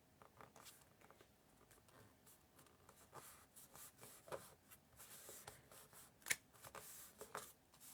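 Faint handling of cardstock: soft rustles and light taps as paper pieces are lined up and pressed into place, with one sharper tap about six seconds in.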